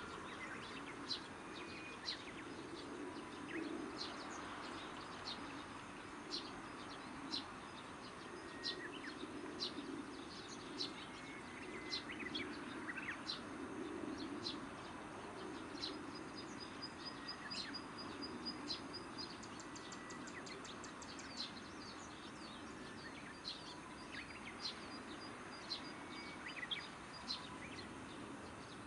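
Birds chirping, with many short high calls throughout, over a steady low background hum. A fast, even high trill runs for a few seconds just past the middle and again near the end.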